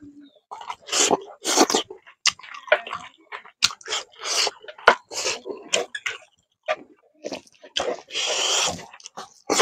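A man chewing mouthfuls of rice and fish curry eaten by hand: wet chewing and smacking mouth sounds in irregular short bursts with sharp clicks.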